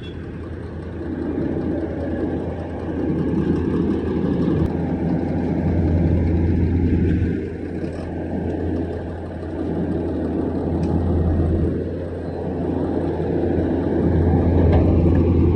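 Road traffic: motor vehicles running past on a street, a steady low engine and tyre rumble that swells and eases several times as vehicles go by.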